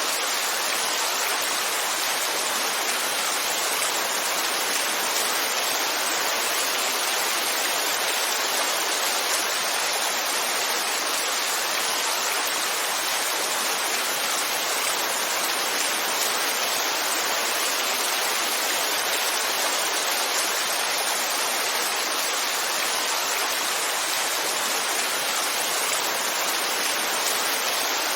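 Heavy rainfall: a steady, even hiss of rain, with no single drops standing out.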